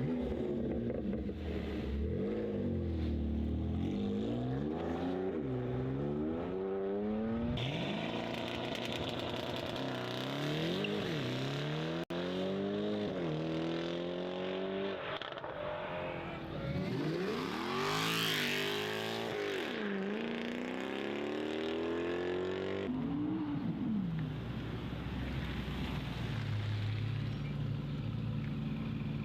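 Car engines revving hard and accelerating away, one after another, the engine note climbing and dropping with each throttle blip and gear change, with abrupt jumps from one car to the next. About halfway through, a short burst of hiss rises over the engine.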